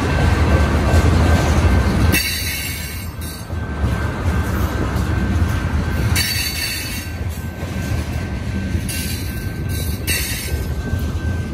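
A train rolling past on the tracks: a heavy rumble of rail cars, loudest for about the first two seconds, then lighter, with short patches of hiss coming and going.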